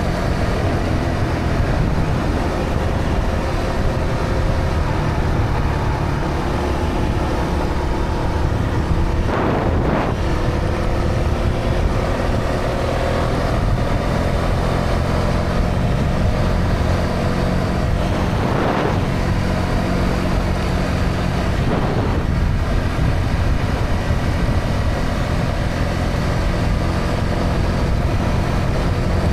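Honda CB125R's single-cylinder four-stroke engine running through its stock exhaust under way, its pitch drifting up and down gently, with wind rushing on the microphone. Three brief louder rushes of noise come partway through.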